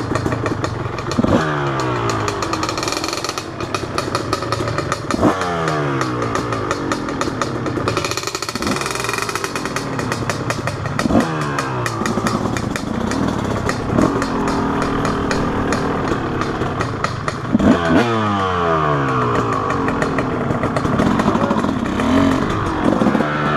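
Two-stroke 250 dirt bike engine being ridden, its revs snapping up about six times and then falling away between each throttle blip.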